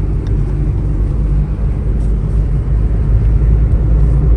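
Steady low rumble of a car driving along a road, engine and road noise.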